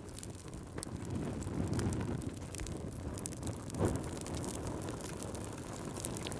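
Wood fire crackling, with scattered small pops over a low rumble and one louder pop about four seconds in.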